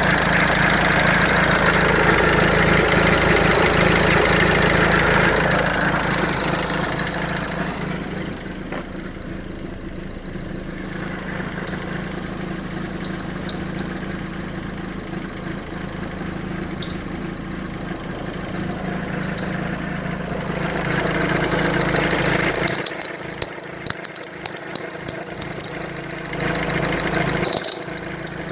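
Mercedes-Benz C-Class (W204/S204) engine running at idle, with short high squeaks from the belt drive coming and going in the second half as the steering is turned. The squeak comes from a failing alternator overrunning (freewheel) pulley.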